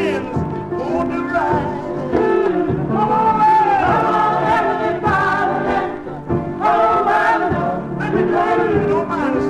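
Black gospel choir singing with instrumental backing over a steady beat, played from a 45 rpm record.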